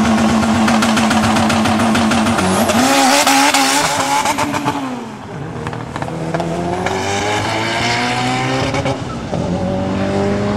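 Engines of drag-racing vehicles, a black SUV and a sports car, held at steady high revs at the start line, then accelerating away down the strip. The engine note climbs and drops back at each gear change, twice.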